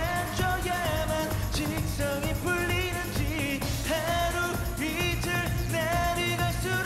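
Male K-pop group singing a sung melody with vibrato over a dance-pop backing track with a steady beat.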